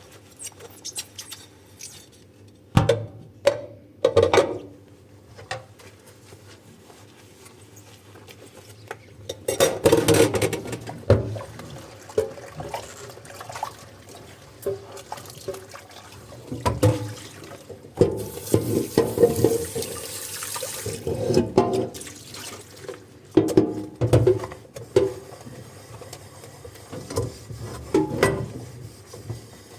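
Dishes being washed by hand in a sink: tap water running in spells, with irregular knocks and clinks of dishes being handled.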